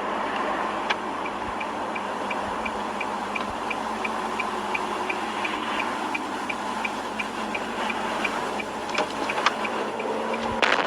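Car turn-signal indicator ticking evenly, about two to three clicks a second, over steady road and engine noise inside the cabin.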